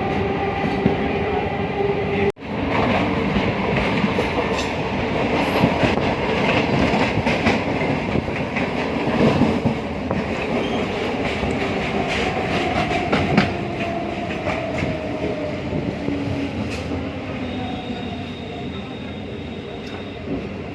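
Passenger train running, heard from on board: a steady rumble with wheels clattering over the rail joints. The sound drops out for an instant about two seconds in, and a faint high wheel squeal comes in near the end.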